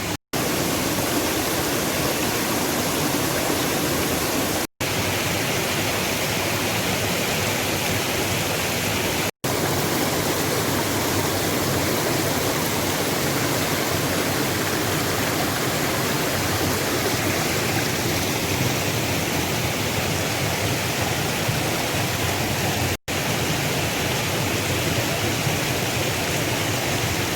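Waterfall rushing, a loud and steady roar of falling water. The sound drops out for an instant four times where the shots change.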